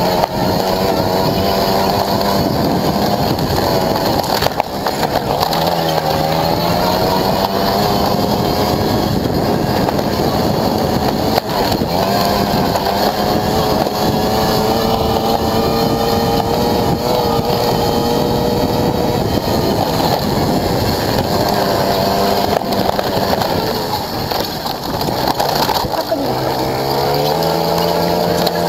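Motorcycle engine heard on board at speed, its revs rising and falling several times, with a long steady stretch in the middle. Wind rush runs underneath.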